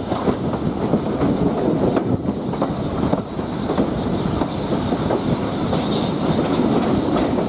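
Passenger carriage rolling along the track, heard from on board: a steady rumble with the wheels clicking over the rail joints.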